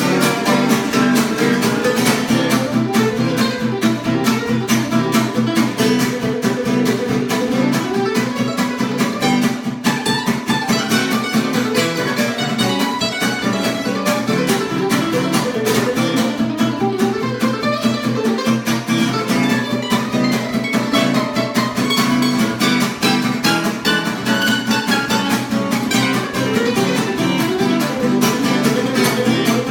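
Instrumental guitar music: quick picked melody lines over a steady, fast strummed rhythm.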